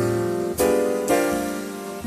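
Background piano music: chords struck every half second to a second, each ringing and fading before the next.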